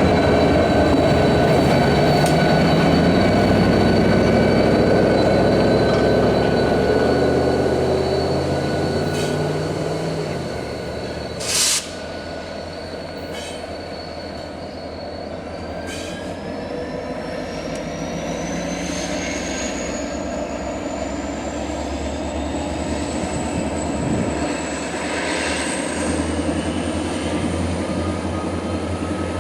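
Freight train switching: a diesel locomotive running, its engine note dropping over the first ten seconds, while the rail car wheels squeal steadily on the track. A single sharp clank comes about twelve seconds in, and later a high squeal slowly rises in pitch.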